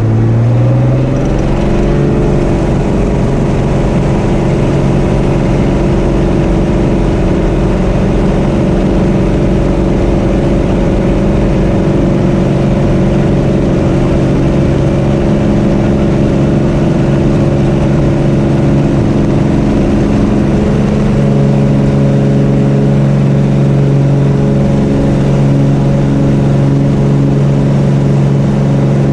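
Cessna 210K's six-cylinder piston engine and propeller droning. The engine speeds up over the first couple of seconds, then holds a steady note.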